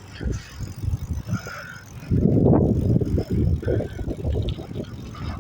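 Uneven low rumble and wind buffeting from travelling, with a louder stretch about two seconds in that lasts a second or so.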